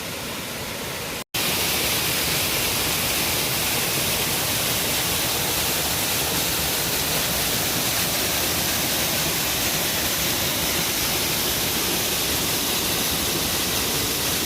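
Waterfall pouring over rocks: a steady, even rush of water. It breaks off for an instant about a second in and comes back slightly louder.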